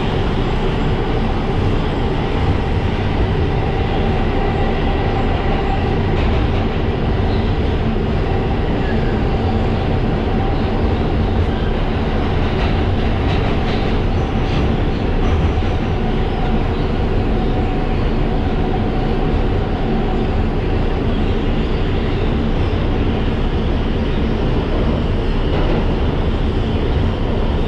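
R142 subway car running between stations, heard from inside the car: a steady rumble of wheels on the rails with a constant hum held underneath, and a few faint clicks about halfway through.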